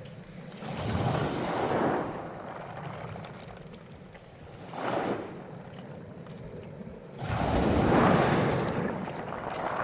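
Wind gusting on the microphone outdoors: a steady low rush that swells three times, briefly about a second in, shortly around five seconds, and most strongly from about seven seconds on.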